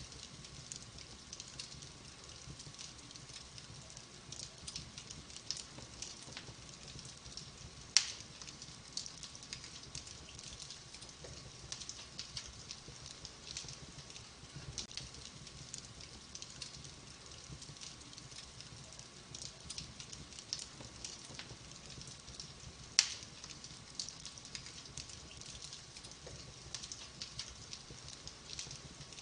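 Wood fire burning in a fireplace, crackling steadily and softly, with two sharp, much louder pops about eight seconds in and again near twenty-three seconds in.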